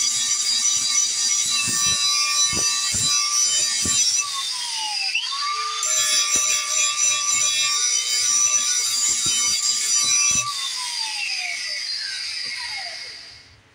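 Electric grinder sharpening a steel mower blade: a steady motor whine with a hissing metal-grinding scrape and a few knocks. About four seconds in it briefly winds down and is started again. Near the end it is switched off and spins down to a stop.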